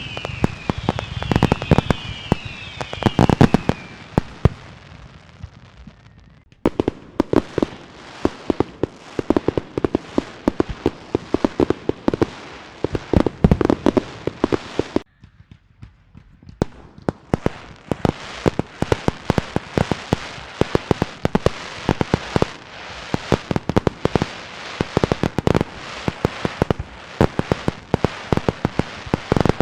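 Fireworks and firecrackers going off in rapid, dense volleys of sharp bangs and crackles, with falling whistles near the start. The barrage breaks off briefly twice, about six seconds in and again midway, then resumes.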